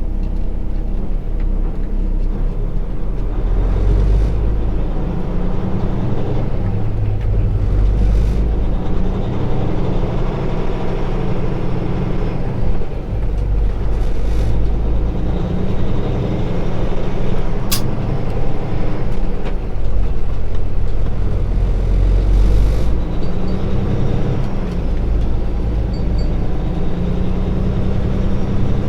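Kenworth T680 diesel truck engine running while driving, heard from inside the cab, its note rising and dropping several times as the truck works through the gears of its 13-speed transmission. A single sharp click about two-thirds of the way in.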